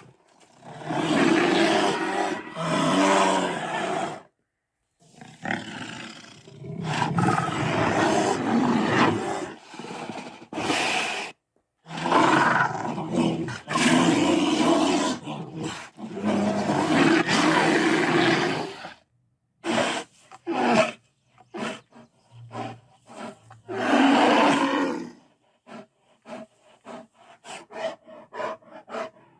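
Tyrannosaurus rex roar sound effects: a string of long, rough roars with short gaps between them, then, about two-thirds of the way through, a run of short choppy calls broken by one more roar.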